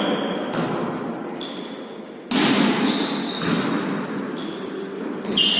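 A volleyball being hit and bouncing on a hard court floor: several sharp smacks, the loudest about two seconds in, each with a ringing tail, mixed with short high squeaks of players' shoes over a low background murmur.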